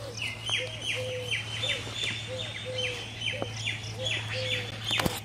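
Birds calling: a fast run of high repeated notes, about three a second, over a slower, lower repeated call, with a steady low hum beneath and one sharp click near the end.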